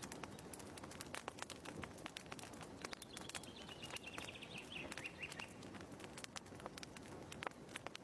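Wood fire crackling in a fireplace: irregular pops and snaps over a soft hiss. A short, falling bird trill sounds briefly in the middle.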